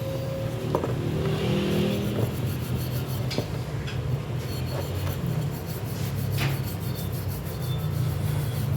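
A car engine running steadily at idle, with a few light clicks and knocks of tools or parts over it.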